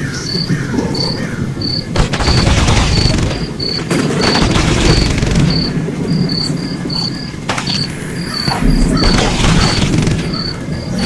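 A cricket chirps in an even rhythm, about two chirps a second, over the crackle of a bonfire that swells into loud rushing surges a few times.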